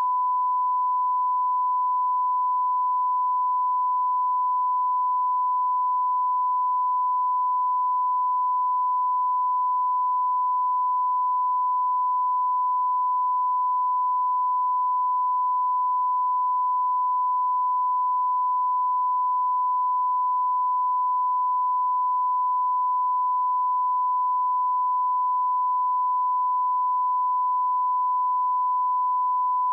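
A steady, unbroken 1 kHz sine test tone, the line-up reference tone placed at the head of a video master.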